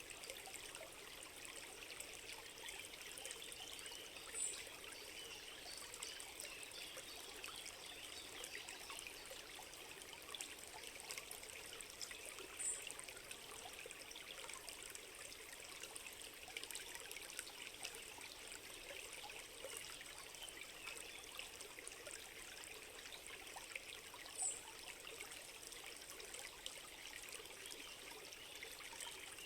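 A small stream trickling steadily, with a short high chirp heard three times, several seconds apart.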